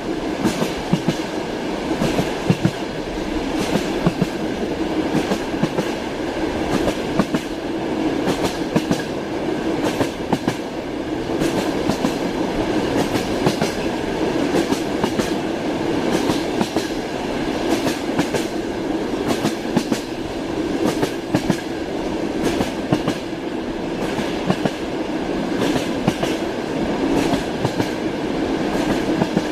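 Train wheels clacking over rail joints, with frequent sharp clicks over a steady rolling rumble.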